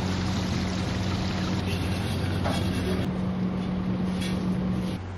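A steady low mechanical hum under an even rushing noise, with the upper part of the hum cutting off about five seconds in.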